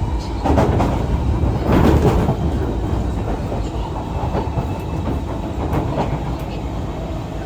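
Heard from inside the car, an SMRT C151 metro train running between stations gives a steady rumble of wheels on rail. There are clattering bursts as the wheels cross rail joints, loudest about half a second and two seconds in, with a lighter one near six seconds.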